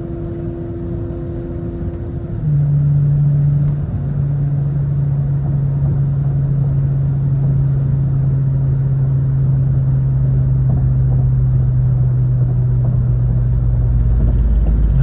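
Steady in-cabin drone of a car cruising on the road: an even engine hum over tyre and road rumble. The hum drops to a lower pitch suddenly about two and a half seconds in and holds steady after that, while the low rumble grows stronger near the end.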